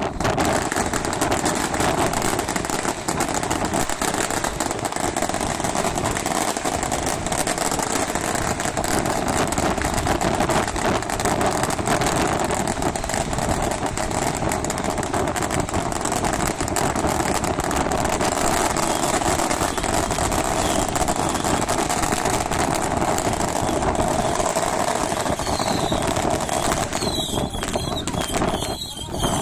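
Steady running engine noise with a constant drone. Near the end come a few short, high, falling chirps.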